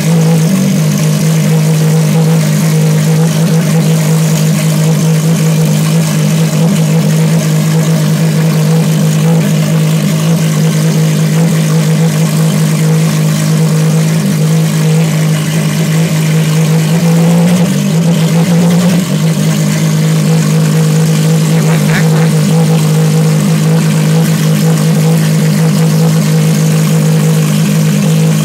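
Ferrari FXX's V12 engine running loud and steady at a fast idle, with a brief small blip in its note about two-thirds of the way through.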